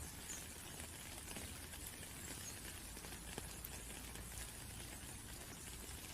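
Light, steady rain, with scattered drops ticking now and then over an even hiss.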